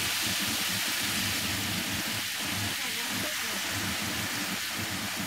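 Sliced meat and white asparagus frying in a hot pan: a steady sizzling hiss.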